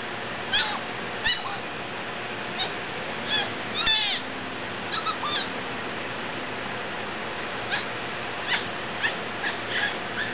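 Birds chirping in short runs of quick high notes, one run every second or so, over a steady outdoor background hiss.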